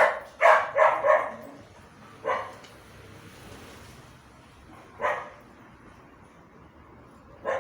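A dog barking: a quick run of four barks, then single barks spaced a few seconds apart.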